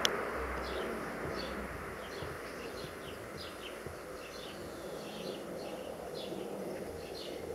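Small birds chirping, short high downward calls at about two a second, unevenly spaced, over a steady distant rushing noise.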